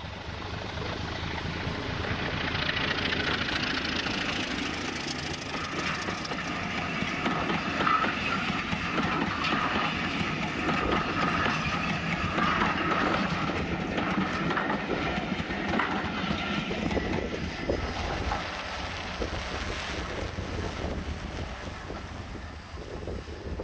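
Heritage passenger train rolling past close by: a steady rush of wheels on rail with repeated clicks over the rail joints. It swells about two seconds in and eases off near the end.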